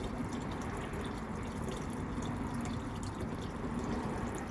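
Water trickling steadily, with small drips.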